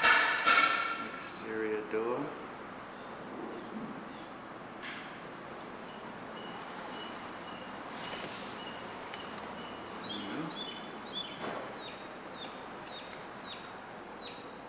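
Faint insect chirping, with a bird calling a run of short falling high notes, about two a second, over a steady hiss in the last four seconds.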